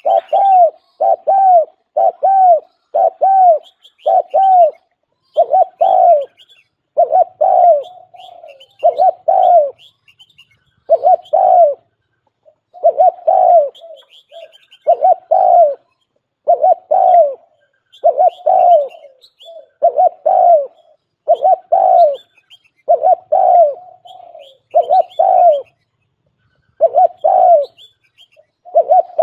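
Spotted dove (cu gáy) calling as a decoy bird, a long run of short coos at about one a second with brief pauses. Faint high chirps of small birds sound behind it.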